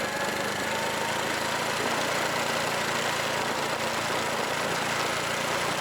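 Honda Super Cub's small single-cylinder four-stroke engine running at a steady pace while riding.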